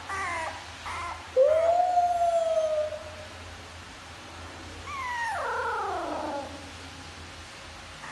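Puppy howling: a short whine at the start, then one long howl about a second and a half in, the loudest part, and a second howl falling in pitch about five seconds in.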